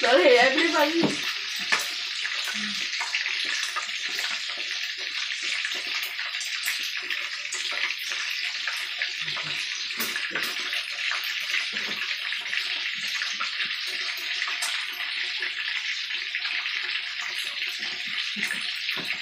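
Minced pork and shrimp balls deep-frying in a pan of hot oil: a steady sizzle with small pops and crackles.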